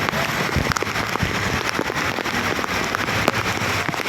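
Heavy monsoon rain falling on surfaces and standing floodwater, a dense steady patter with many sharp drop hits close by.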